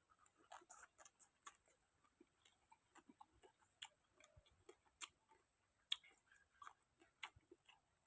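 Faint eating sounds: irregular small clicks, smacks and crunches of someone chewing, scattered a few times a second.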